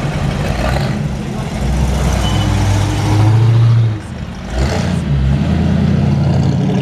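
Classic car engines driving past close by: a black muscle car pulls away, loudest about three to four seconds in. A 1930s Chevrolet pickup hot rod then runs past steadily after a brief dip in the sound.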